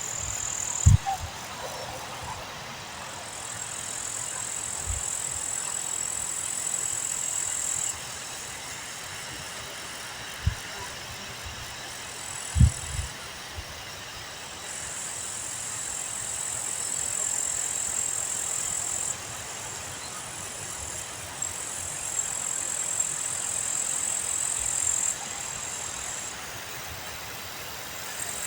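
Wind blowing across an open meadow and buffeting the microphone, with a few low thumps from gusts. A high, steady hiss comes and goes in stretches of several seconds.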